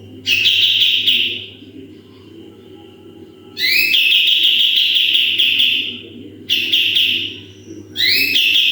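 A kapas tembak songbird giving its loud, sharp "shot" calls in four bursts. Each burst opens with a few quick rising notes and then holds a harsh, piercing tone for one to two seconds. A steady low hum runs underneath.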